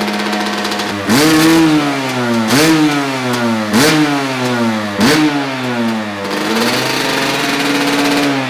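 Two-stroke dirt bike engine with a new Bill's Pipe expansion-chamber exhaust, idling and then revved in four quick throttle blips about a second apart, each snapping up in pitch and falling back. Near the end it is held at a longer, slowly climbing rev.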